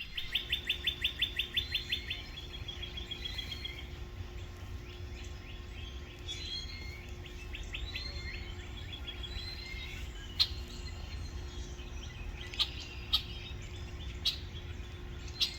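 Small songbirds singing and calling: a fast run of repeated high notes, about six a second, for the first two seconds, then scattered chirps and calls. A few sharp clicks come in the second half.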